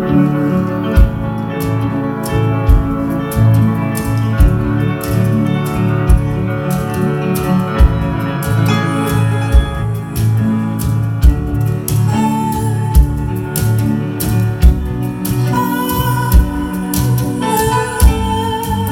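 A live band playing an instrumental passage without vocals: sustained chords over a steady beat that lands about every second and a half.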